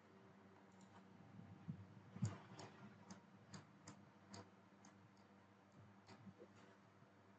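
Faint, irregularly spaced clicks of a computer mouse, about a dozen of them, starting about two seconds in and thinning out about six seconds in.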